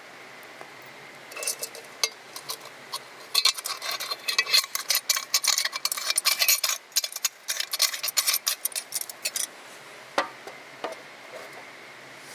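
A rapid, irregular run of light clinks and scrapes of hard objects handled together, starting about a second in and lasting about eight seconds, followed by a few single clicks.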